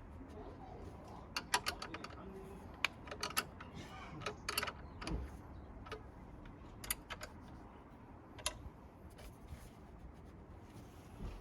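Irregular light clicks and clinks of small metal parts and hand tools being handled, bunched together in the first half and then a couple of single clicks.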